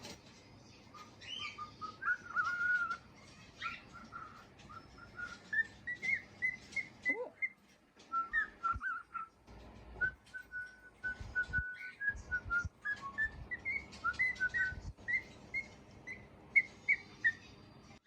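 Young male cockatiel whistling: strings of short, clear notes that climb in pitch in runs, with small clicks and taps in between.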